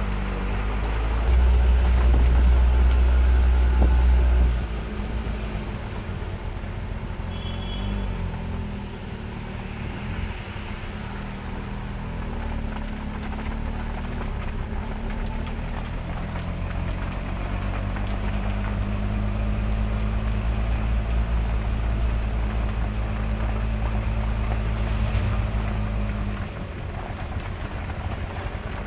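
Steady rain mixed with a vehicle's engine running, heard from inside the vehicle. A heavier low rumble swells for about three seconds near the start.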